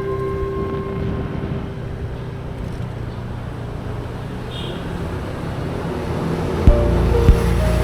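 Motorcycle riding through traffic: a steady low rumble of engine and road noise. Background music fades out about a second in, and music with a regular thumping beat starts near the end.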